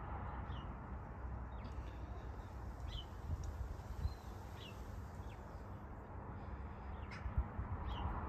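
Several short, high bird calls, each a quick falling note, scattered irregularly over a low steady rumble of outdoor background noise.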